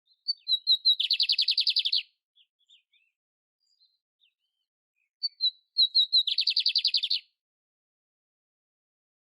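Canary singing two matching phrases a few seconds apart. Each opens with a few short, high, clear chirps and runs into a fast, buzzy trill about a second long; faint scattered notes fall between the phrases.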